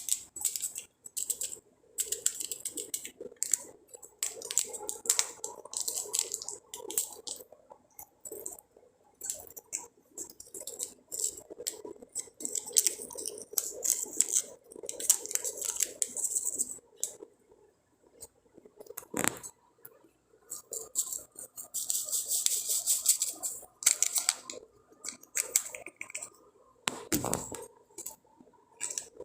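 Close-up handling of a small coffee packet, crinkling and rustling in irregular bursts, mixed with light clicks and taps of kitchenware.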